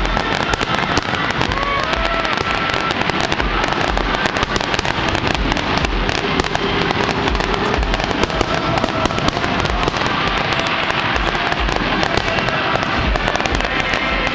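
Fireworks display going off continuously: dense crackling and popping with frequent low booms.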